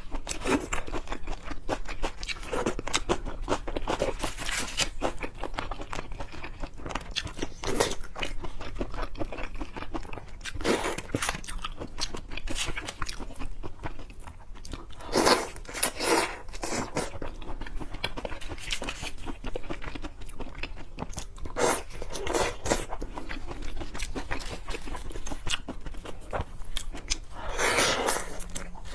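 Close-miked mukbang eating of seafood: irregular wet chewing and biting, with a few louder bursts now and then.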